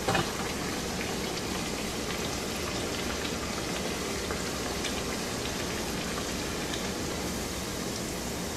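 A masa gordita deep-frying in hot oil in a pan: a steady sizzle with fine crackling as the dough puffs up and browns. A short knock comes near the start.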